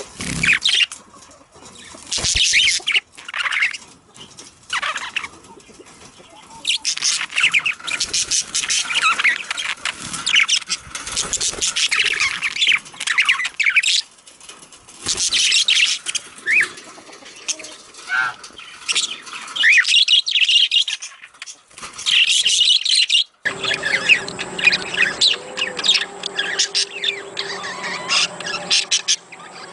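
Budgerigars chattering and warbling in a busy, continuous stream of high chirps, the kind of budgie chatter played to encourage breeding. Near the end the sound changes abruptly and a steady low hum runs beneath the chirping.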